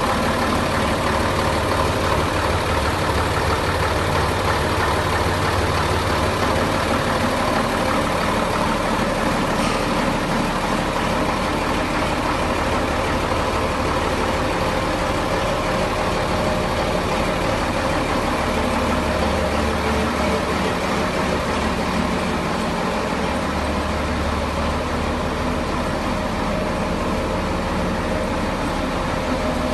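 1960 Scania L75 truck's diesel engine running steadily with no revving.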